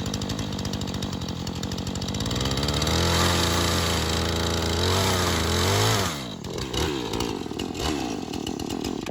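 Two-stroke chainsaw running, revved up about two seconds in and held at high speed for about three seconds while the chain runs against the clamp-on sharpener's grinding stone, then dropping back to a lower speed.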